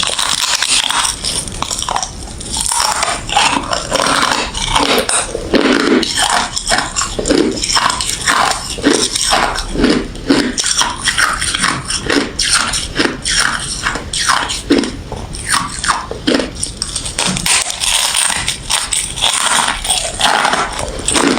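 Close-miked crunching of refrozen crushed ice and frosty freezer ice being bitten and chewed, dense, irregular crackling crunches, several a second.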